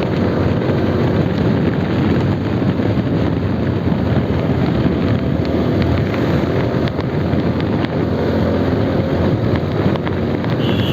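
Motorcycle engine running steadily at riding speed, mixed with wind rushing over the rider's microphone.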